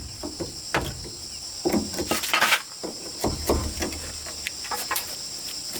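A steady, shrill insect chorus, with irregular knocks and clatter from work close by and a brief scraping rustle about two and a half seconds in.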